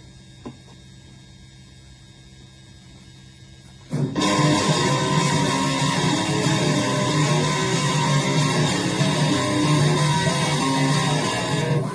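A steady low hum with a single click, then electric guitar rock playing that starts abruptly about four seconds in and stays loud.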